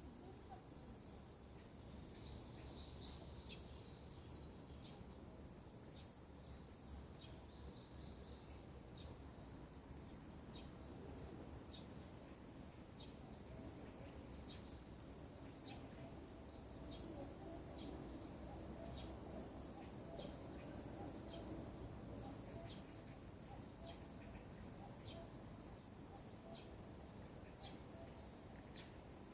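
Faint birdsong: a bird repeats a short, high chirp about once a second, after a brief warbling phrase near the start. A steady low rumble runs underneath.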